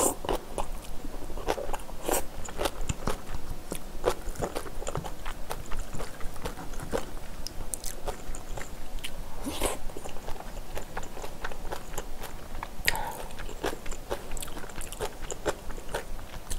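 Close-miked chewing of kimchi and rice: crisp napa cabbage kimchi crunching between the teeth, with many short sharp clicks and a few louder bites.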